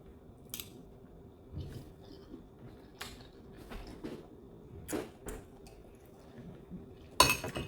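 Eating at a table: scattered soft clicks and scrapes, then a louder clatter of cutlery against a plate near the end.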